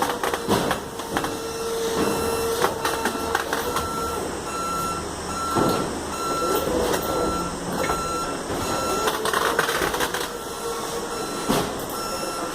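Loading machinery running with irregular clanks and knocks, and a vehicle reversing alarm beeping steadily for a few seconds in the middle.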